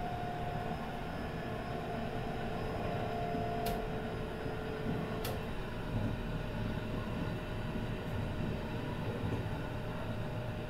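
Kintetsu 22000 series ACE limited express train running, heard from the deck inside the car: a steady rumble with faint steady tones that give way to a different tone about five seconds in. Two sharp clicks come about four and five seconds in.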